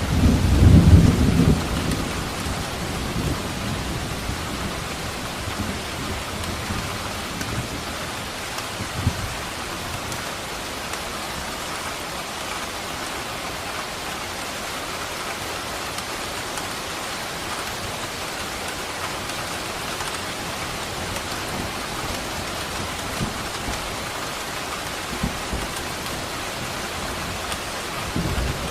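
Steady heavy rain with thunder: a loud low rumble at the start that dies away over about two seconds, a short low crack about nine seconds in, and another low rumble near the end, under an even hiss of rainfall.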